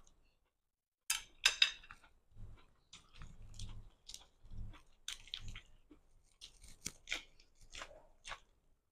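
A person eating a crisp lettuce-leaf wrap: sharp crunches, loudest about a second in, then irregular crunching and chewing.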